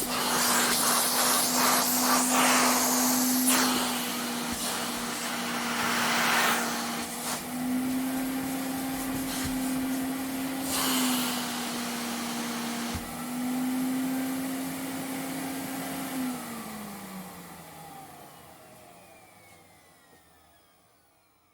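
Vacuum cleaner running, its motor holding a steady hum under a rushing airflow hiss that swells and eases several times. About 16 seconds in it is switched off, and the motor whine falls in pitch and fades away as it spins down.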